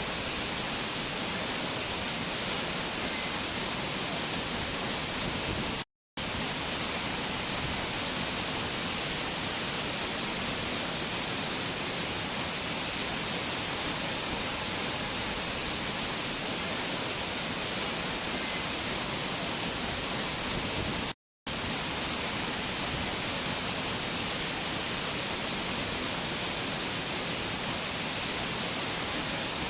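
Waterfall cascade rushing steadily, an even hiss of falling water with a bright high edge. The sound cuts out completely for a split second twice, about 6 seconds in and again about 21 seconds in.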